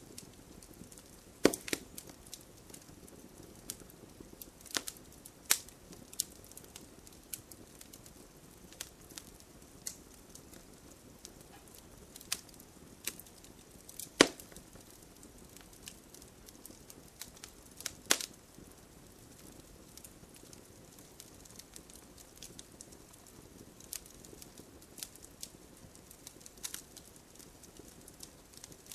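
Wood fire crackling, with a low steady hiss and scattered sharp pops; the loudest pops come about a second and a half in, around halfway through, and a few seconds after that.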